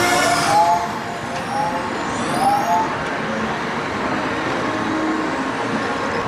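Slinky Dog Dash roller coaster in motion, heard from a rider's seat: a steady rush of wind and track noise. A few short rising squeals come in the first three seconds.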